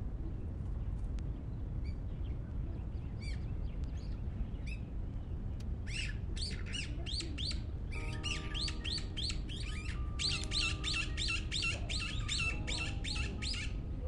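Birds chirping: a few scattered single chirps, then from about six seconds a bird sings a fast, evenly paced run of chirps, about six a second, over a steady low background rumble. Soft background music with held notes comes in about eight seconds in.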